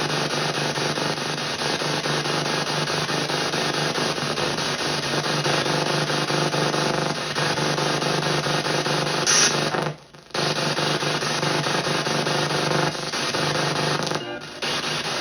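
P-SB7 spirit box in reverse sweep, playing continuous choppy radio static with snatches of broadcast sound through stereo speakers. About ten seconds in the sound cuts out briefly, then carries on.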